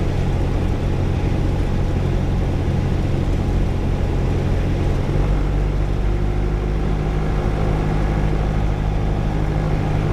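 Light single-engine piston airplane engine running steadily in cruise, a constant low drone with its propeller heard from inside the cockpit.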